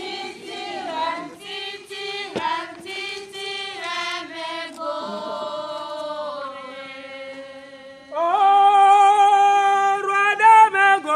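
A group of voices singing a slow song, moving from shorter notes to long held ones, and getting louder about eight seconds in.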